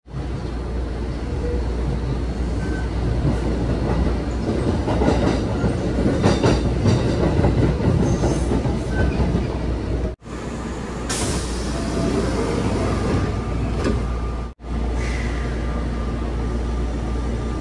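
Kintetsu 7000 series electric train running on the rails, heard from inside the carriage: wheel rumble and clatter over rail joints and points, loudest a few seconds in. The sound cuts out abruptly twice.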